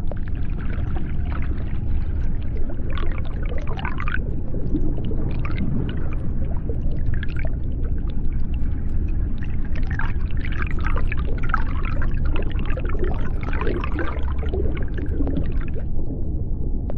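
Underwater sea ambience: a steady deep rumble with high, sliding calls and cries, some falling steeply in pitch, that stop about a second before the end.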